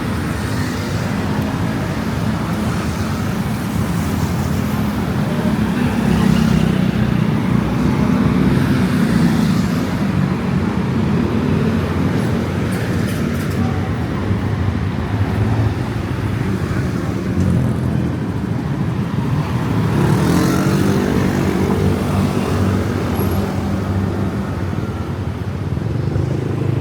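Steady road traffic, with vehicle engines running close by, without a break.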